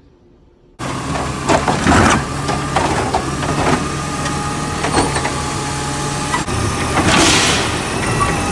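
Garbage truck engine running loudly, starting abruptly about a second in, with several sharp clanks and bangs of trash cans being emptied and a short rushing hiss near the end.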